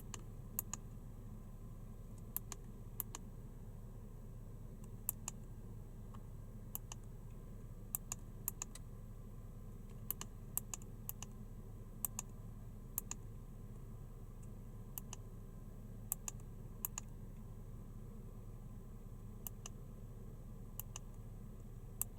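Scattered sharp clicks at irregular intervals, many coming in quick pairs, over a low steady hum.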